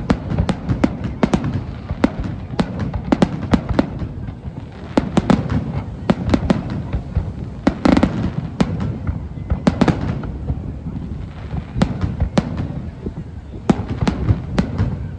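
Fireworks display going off: a rapid, irregular string of sharp bangs and crackles over a low rumble, with louder bursts about eight and ten seconds in.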